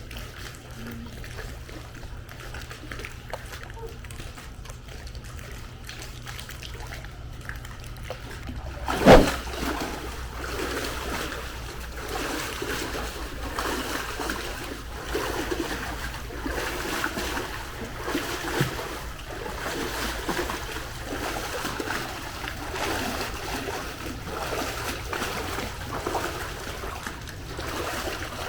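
Pool water splashing and sloshing. A single sudden loud splash comes about nine seconds in, followed by continuous irregular splashing.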